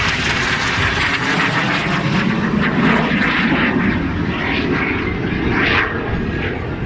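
Fixed-wing aircraft flying past with a loud, steady engine roar; a deeper rumble swells about two to four seconds in.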